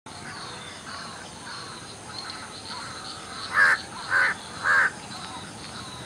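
Wild birds calling: a steady mix of many small calls from several birds, with one bird giving three loud calls about half a second apart a little past the middle.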